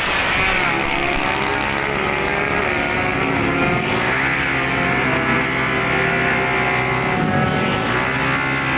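Two-stroke 150cc racing motorcycle engines at race pace, more than one at once, their pitch rising and falling as they rev and shift. The pitch dips sharply about four seconds in and again near the end.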